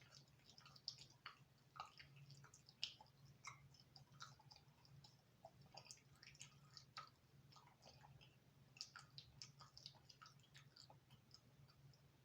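Faint close-up chewing of thin crispy-crust pizza: a steady run of small, irregular wet clicks and crunches with each bite and chew.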